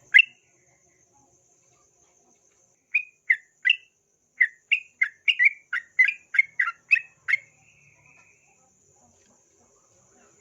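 Yellow-vented bulbul (trucukan) singing: a pair of short chirps at the start, then from about three seconds in a quick run of about fifteen short notes that ends about seven and a half seconds in.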